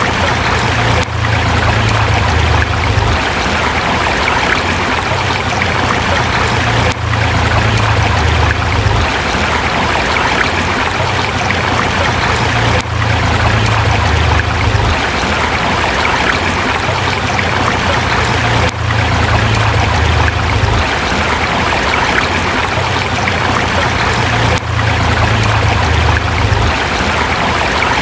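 River water rushing steadily over rocks, a dense even splashing. Underneath it a low rumble swells and fades about every six seconds.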